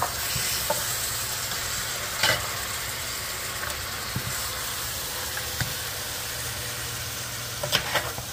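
Beef chunks, potatoes and masala curry paste sizzling in a hot Dutch oven as they are stirred, the meat being fried in the masala ("bunged") before water goes in. A few short knocks of the stirring spoon on the pot, about two seconds in and again near the end.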